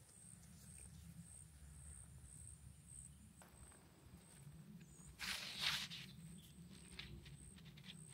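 Quiet outdoor swamp ambience: a high, thin chirping repeats about twice a second over a low rumble. A brief rustle comes about five seconds in, followed by a few light clicks.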